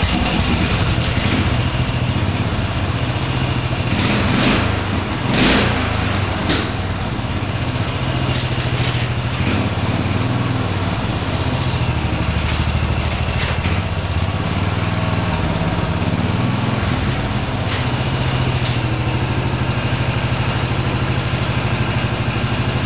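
Murray riding mower's 14.5 hp Briggs & Stratton overhead-valve engine running just after starting, through its stock muffler. It swells twice about four to six seconds in, then settles into steady running.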